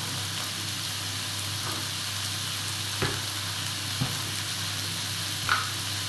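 Mixed seafood and garlic sizzling steadily in an electric skillet, with a few light knocks about halfway through and near the end.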